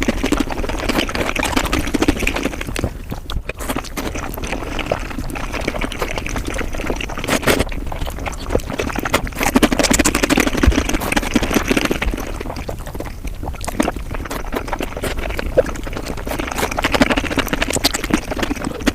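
Eating sounds sped up to five times normal speed: a fast, dense run of chewing clicks and mouth noises, dipping briefly now and then.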